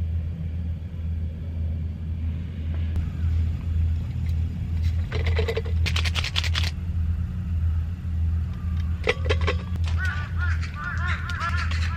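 A steady low hum like an idling engine throughout, with bursts of clicks about halfway through and short, quickly repeated chirping calls near the end.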